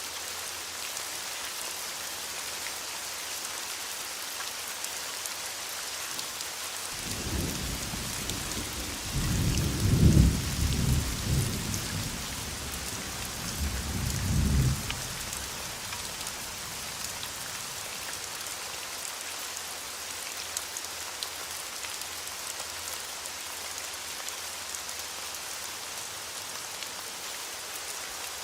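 Steady rain falling, with a roll of thunder rising about a quarter of the way in, peaking near the middle with several low rumbles, then fading out.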